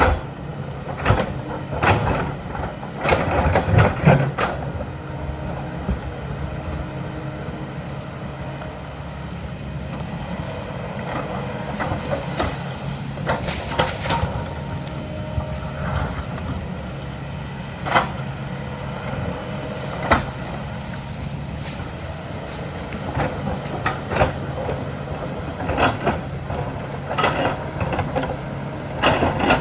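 Diesel engine of an earthmoving machine running steadily at work, with scattered sharp clanks and knocks of bucket and rock, a cluster of them in the first few seconds and more now and then through the rest.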